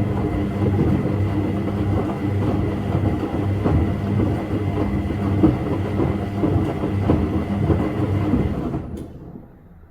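Washing machine running: a steady motor hum with a dense rattling clatter as the drum turns. It stops abruptly about nine seconds in.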